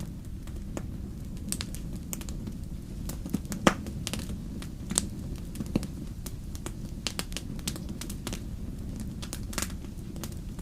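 Wood fire crackling in a fireplace: scattered sharp pops and snaps over a steady low rumble, the loudest pop coming a little over three and a half seconds in.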